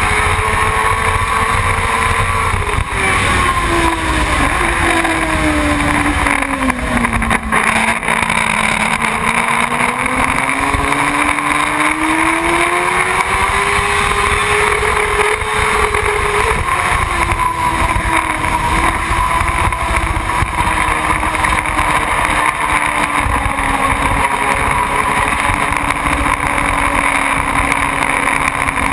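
Motorcycle engine running under way. Its note drops a few seconds in, climbs back by about the middle, then holds steady.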